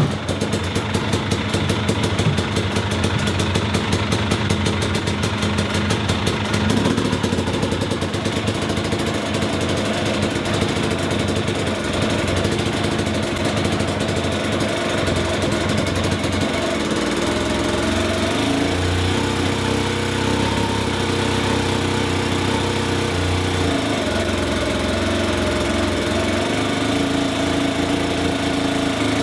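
Two-stroke dirt bike engine (KTM TPI) idling steadily, its pitch rising and falling slightly a few times as the throttle is touched.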